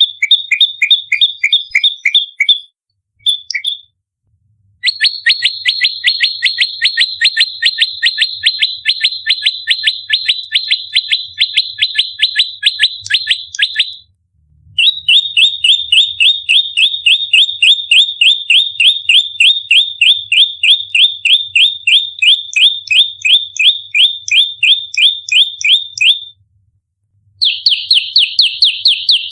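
Prenjak lumut songbird giving its rapid-fire fighting call: long runs of sharp, downward-sliding chirps, about four a second, broken by short pauses. This tight, fast volley is the aggressive territorial song used to lure and train the species.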